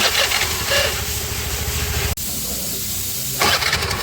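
Honda Activa 3G scooter engine running with a steady low hum. Short bursts of harsh hissing noise come twice near the start and again near the end. This is the scooter's self-start noise, which the mechanic traces to a dried-out starter-motor armature pin.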